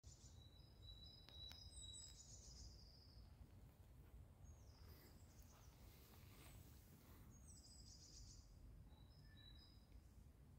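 Near silence in a forest: songbirds sing faintly in several short high-pitched phrases over a low steady rumble.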